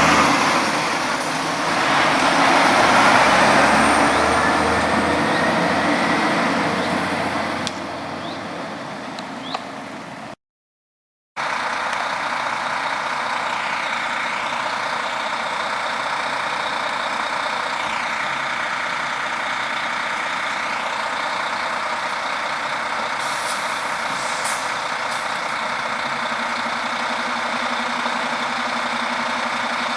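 Heavy trucks on a road. A loud pass fades away over the first several seconds, the sound cuts out for about a second, and then steady traffic noise goes on, with a few short, sharp high sounds a little past the middle.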